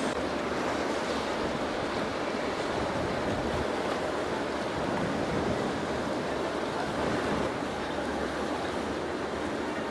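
Steady rushing of water and wind, with no distinct engine note or sharp sounds standing out.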